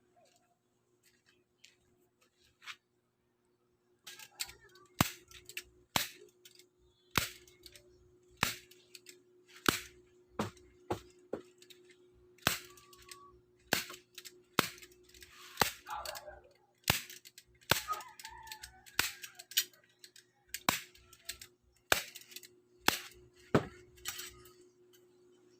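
Hammer blows, a sharp strike roughly once a second, starting about four seconds in and keeping on steadily, typical of nailing a wooden bed frame.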